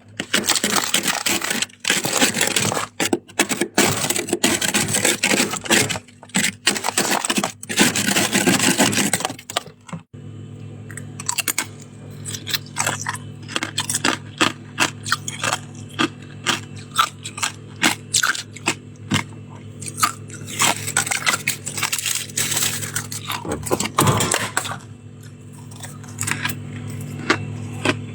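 Soft white shaved ice being crunched and chewed close to the microphone. There is dense, continuous crunching for about the first ten seconds, then sparser, separate sharp crunches over a steady low hum.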